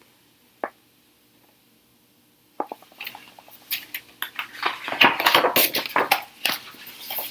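A single light click, then a pause. About two and a half seconds in, a rapid, irregular run of light clicks and taps begins, like small hard objects knocking together, and grows busier towards the end.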